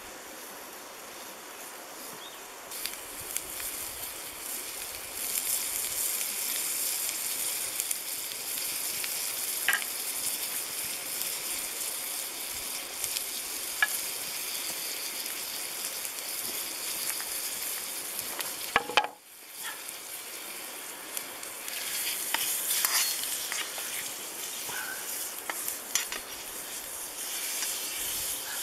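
Slănină (pork fat) sizzling as it fries in a pan over a wood campfire: a steady high hiss with a few sharp pops. The sound briefly drops out about two-thirds of the way through.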